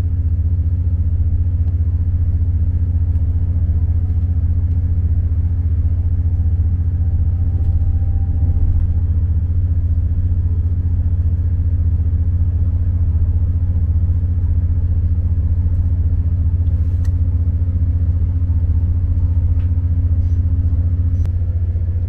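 Diesel multiple-unit passenger train running, heard from inside the carriage as a loud, steady low drone. A fainter steady hum a little higher in pitch cuts off near the end.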